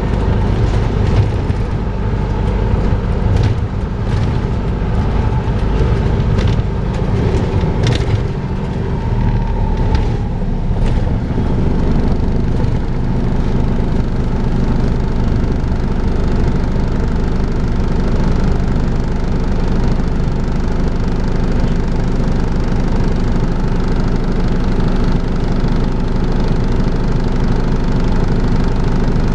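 Volvo B5LH hybrid double-decker bus running, heard on board, with the vacuum-cleaner-like 'hoovering' drone it is known for. There are sharp rattles and knocks during the first eleven seconds or so, then the sound settles into an even drone.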